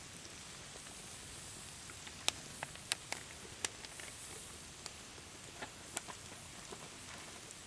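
Wood fire crackling: irregular sharp pops and ticks over a steady hiss, with the loudest cluster of pops in the middle.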